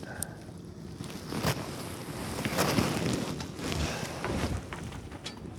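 Strong gusting wind buffeting the microphone over choppy water, with a few small knocks; the loudest gust comes about halfway through.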